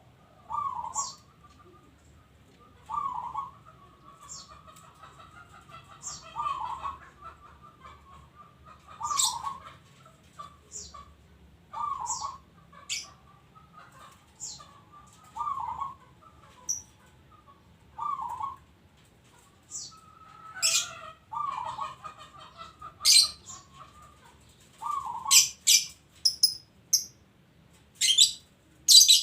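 Zebra dove (perkutut) cooing, one short phrase about every three seconds. Short, sharp high chirps come in between, more often near the end.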